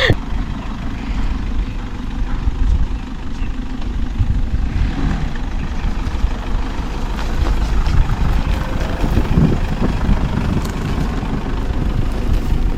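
Vehicle engine running with a steady low rumble as the vehicle moves slowly.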